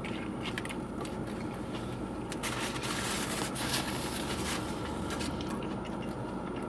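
A person biting into and chewing a fried chicken sandwich, with a paper napkin rustling against the mouth about halfway through, over a steady low hum.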